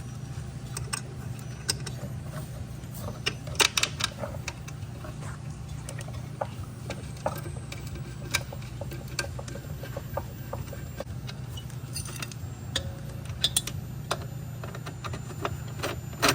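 Scattered metallic clicks and clinks of tools and hardware being handled while a refrigerator compressor is mounted, over a steady low hum. A quick cluster of clinks comes about four seconds in.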